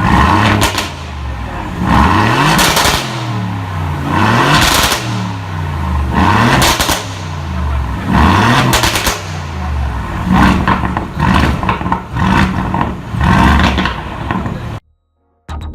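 Aston Martin Vantage's 4.0-litre twin-turbo V8 blipped rev after rev, about every two seconds, each rev climbing and falling away with loud pops and crackles from the exhaust on the overrun. The sound cuts off abruptly near the end.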